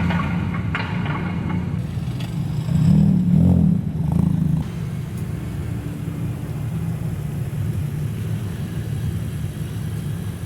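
Modified car's exhaust rumbling deeply at low speed, with a short rev of the engine about three seconds in that rises and falls back.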